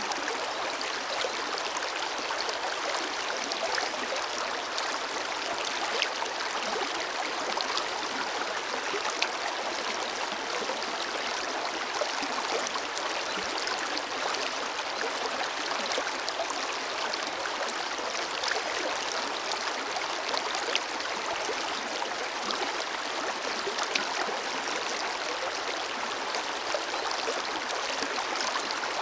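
Forest river water flowing steadily, an even rushing with faint scattered splashes and gurgles.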